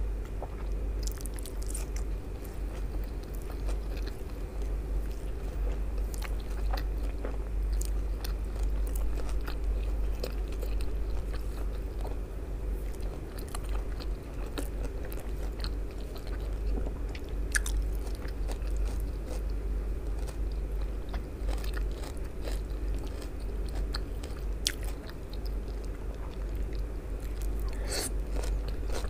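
Close-miked eating sounds: chewing with scattered sharp crunches as baked eggplant pizza and shredded raw cabbage salad are bitten and eaten. A steady low hum runs underneath.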